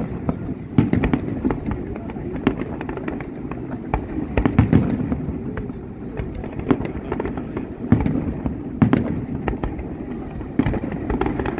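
Fireworks display going off: an irregular, rapid string of sharp bangs and crackles, over the chatter of a watching crowd.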